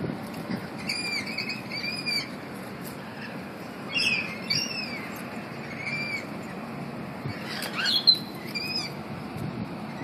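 Birds calling: a loose string of short, clear, arched whistled notes, often in pairs, about every second or two, over a steady background hiss.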